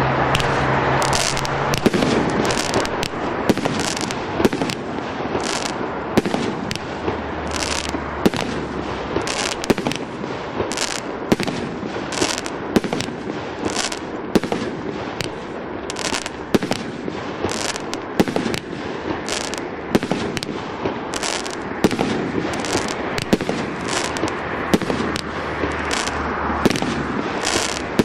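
A 36-shot, 30 mm firework cake firing its shots in quick succession, roughly one to two sharp bangs a second, with the sound of the bursts between them.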